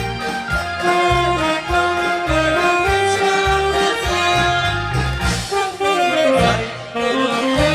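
Saxophone playing the melody of a song over a pulsing bass accompaniment, held notes in turn, with a falling run of notes about six seconds in.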